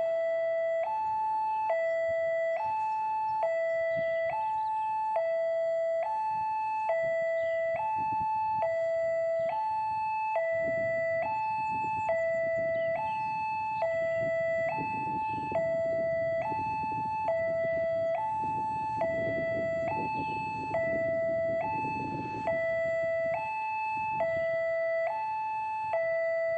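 Railway level-crossing warning alarm sounding, a steady two-tone electronic signal alternating between a lower and a higher pitch about every second. From about ten seconds in, a low rumble builds beneath it and fades away near the end.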